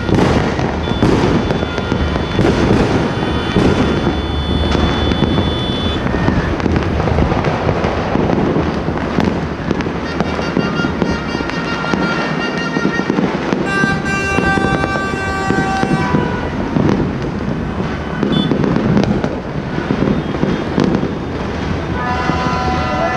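Many fireworks and firecrackers going off at once, a dense, continuous crackle of bangs. Steady horn tones sound over it now and then, the longest about two-thirds of the way through.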